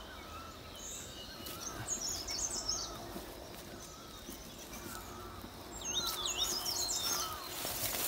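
Birds chirping in woodland: quick bursts of high twittering notes about two seconds in and again around six seconds in, with softer warbled calls between, over a faint steady outdoor background.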